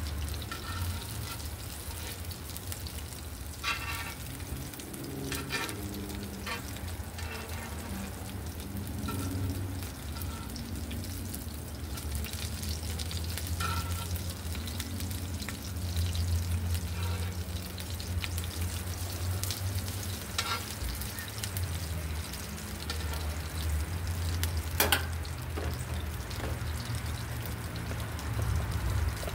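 Food frying in a little oil in a cast-iron pan: a steady sizzle and crackle over a low hum, with a few light clicks and one sharp knock near the end.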